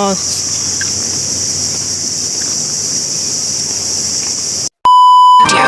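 Steady high-pitched buzzing of insects, then near the end a short, loud electronic beep tone.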